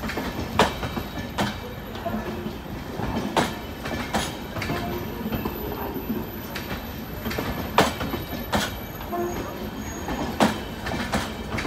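LHB passenger coaches rolling past on the track, their wheels knocking over rail joints in irregular sharp clacks over a steady rumble.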